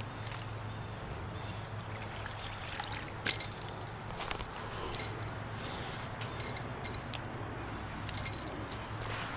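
A freshly caught largemouth bass being landed and handled at the water's edge: scattered short splashes, drips and rattles, the loudest about three seconds in, over a low steady hum.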